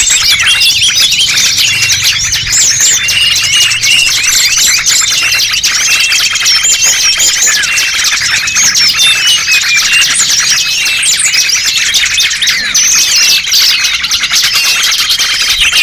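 A dense chorus of many small songbirds chirping and twittering rapidly over one another, high-pitched and unbroken, with a few short held whistles mixed in: a bird-lure (pikat) recording for attracting small birds.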